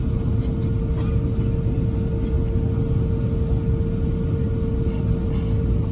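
Cabin noise inside an Airbus A350-1000 airliner: a steady low rumble with a steady hum running over it and a few faint light ticks.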